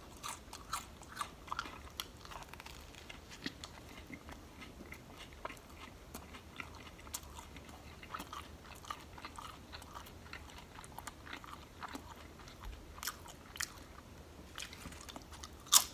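Faint, close-up chewing of a mouthful of sub sandwich: small, irregular wet mouth clicks and smacks, with a louder click near the end.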